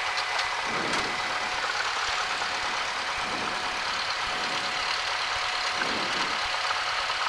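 Cessna 172's piston engine and propeller running steadily at low taxi power, an even drone with no change in pitch.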